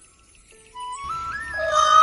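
Background flute music with a melody climbing in small steps, then a loud peafowl call starts near the end.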